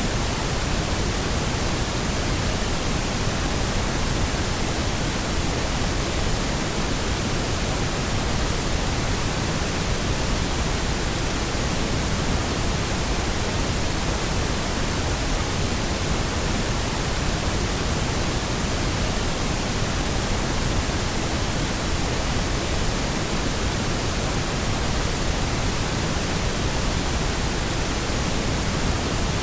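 Steady, unchanging pink noise: an even hiss spread across the whole range with no tones or events.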